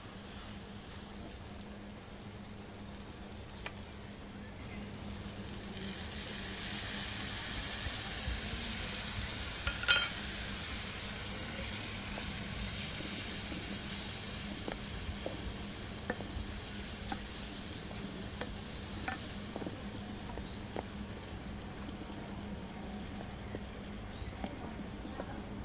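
Onions and egg frying in a nonstick grill pan over a wood fire: a steady sizzle that swells a few seconds in, with a wooden spatula stirring and scraping. Scattered small clicks run through it, and there is one sharp knock near the middle.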